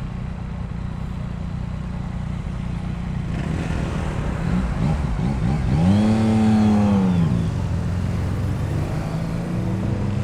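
A motorcycle engine running with a steady low rumble. About halfway through, the revs rise and then fall away.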